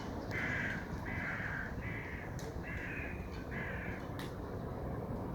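A bird giving a series of five short calls, about one every second, over a steady low rumble.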